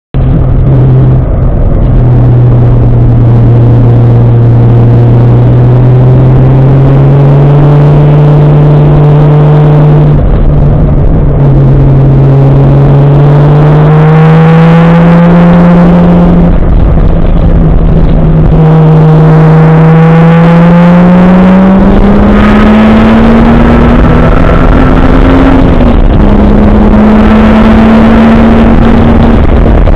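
Turbocharged 1JZ-GTE inline-six engine in a Nissan 240SX, driven hard under load. Its note climbs steadily in pitch and drops back several times, as at gear changes.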